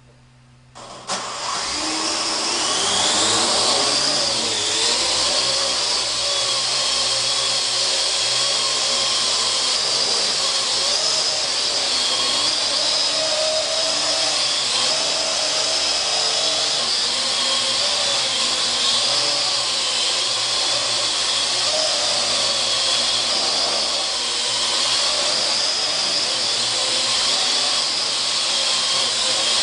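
Parrot AR.Drone quadcopter's four electric rotors starting up suddenly about a second in, the whine rising in pitch over the next two seconds, then a steady high buzzing whine while it flies, the pitch wavering slightly.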